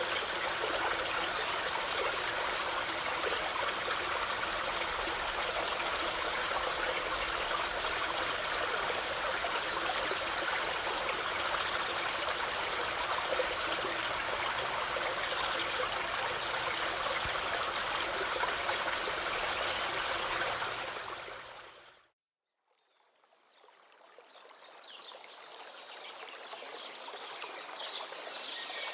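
River water flowing steadily, which fades out to silence about three-quarters of the way through; a new, quieter flowing-water sound then fades in and grows toward the end.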